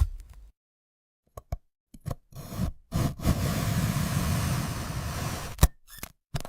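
Glassy cutting sounds of a knife going through a glass-like fruit: a few short sharp clicks, then a dense steady crackle from about three seconds in, ending in one sharp snap near the end.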